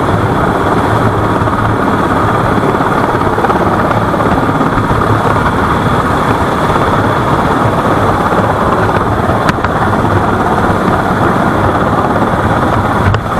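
Helicopter running steadily: rotor chop with a thin steady high turbine whine over it.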